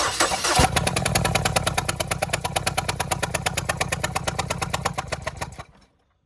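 2013 Ford Escape engine cranking on its starter during a compression test of cylinder 2, with a rapid even pulsing that cuts off suddenly near the end.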